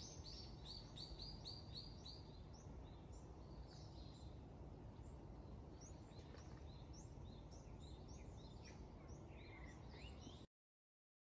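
Faint birds chirping over a low steady outdoor rumble: a quick run of short repeated chirps, about five a second, at first, then scattered calls. The sound cuts off abruptly near the end.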